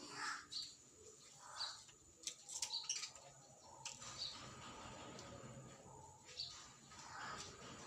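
Birds chirping faintly: short, irregular calls about every second or so.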